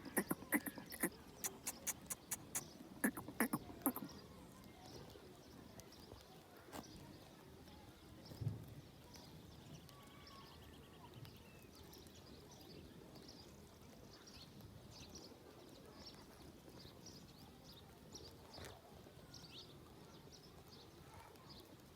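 Goats grazing: a rapid run of sharp clicks over the first four seconds, typical of grass being cropped and chewed, then faint bird chirps and a single low thump about halfway through.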